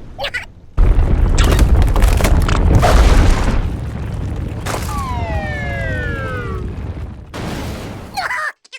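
Cartoon earthquake sound effect: a loud, deep rumble that starts suddenly about a second in, then eases to a softer rumble. Partway through, a pitched sound glides steadily downward for about a second and a half.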